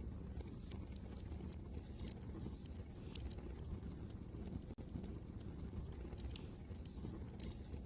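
Wood fire crackling in a fireplace, with sharp, irregular pops and snaps, over a steady low rumble of wind.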